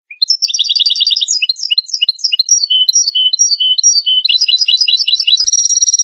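European goldfinch singing: a fast, varied twittering song of high chirps and buzzy notes, with rapid trills about half a second in and again in the last second.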